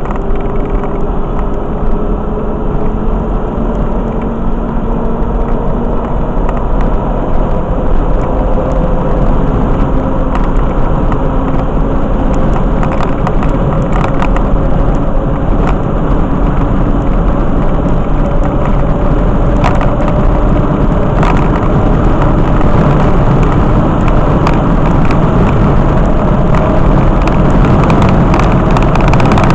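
Motor vehicle under way: steady engine and road noise, with an engine tone slowly rising in pitch as it gathers speed.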